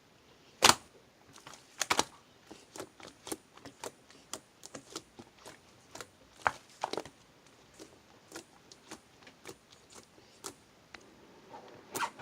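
Irregular light clicks and taps, a few to several a second, with one louder knock about a second in.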